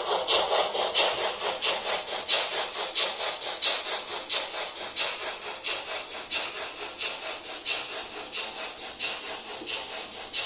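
Steam exhaust beats from an ESU LokSound 5 decoder in a Märklin H0 model of a DRG class 45 locomotive, played through the model's loudspeaker. Steady chuffing with a stronger beat about every two-thirds of a second and lighter beats between, slowly getting quieter.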